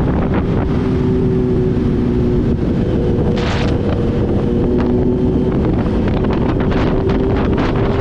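Kawasaki Z H2 supercharged inline-four engine running at a steady highway cruise, with heavy wind buffeting on the microphone. A brief hiss comes about three and a half seconds in.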